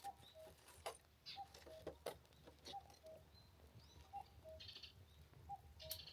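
Freshly lit wood fire crackling faintly with scattered sharp snaps as the kindling catches, while a distant bird repeats a two-note call, a higher note then a lower one, about every second and a half.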